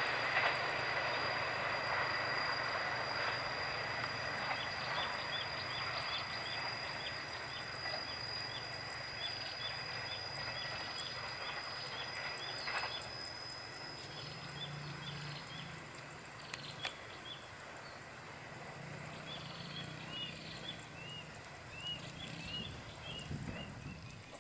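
A just-passed train receding, its rail noise dying away over the first dozen seconds along with a high steady ringing tone that stops about halfway through. Small high chirps repeat about twice a second over the fading noise, with a few rising chirps near the end.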